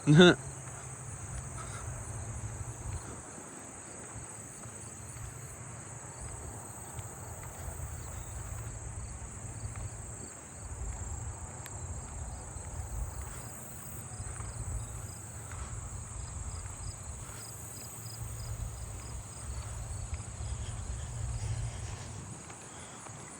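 Crickets chirping: short repeated chirps, which fit fall field crickets, over a steady high-pitched insect buzz, with a low rumble beneath.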